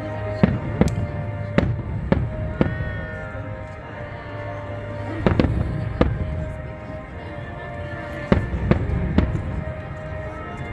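Fireworks bursting in a display: about ten sharp bangs at irregular intervals, some in quick pairs, over music with long held notes.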